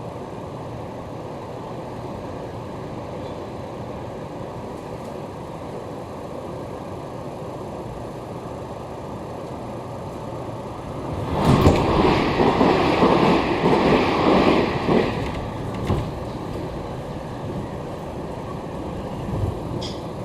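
Passenger train running at reduced speed, heard from inside the car as a steady rumble of wheels on rails. About halfway through, a louder stretch of rumbling and clatter lasts about three and a half seconds.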